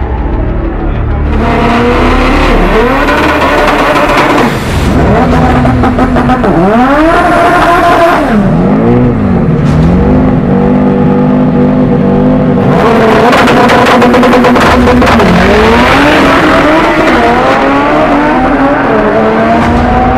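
Drag-race car engine revving hard, its pitch climbing and dropping back several times, louder and higher through the second half.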